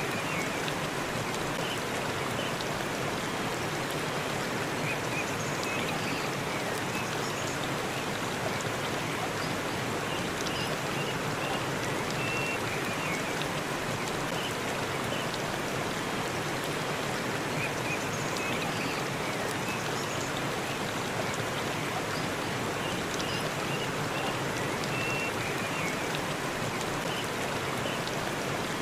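Forest waterfall rushing steadily, with a few short high chirps now and then.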